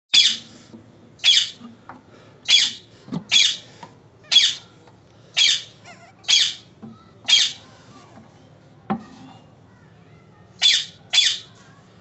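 Alexandrine parakeet giving loud, harsh squawks, each short, about one a second, then two more close together after a pause of about three seconds. A single knock comes about nine seconds in.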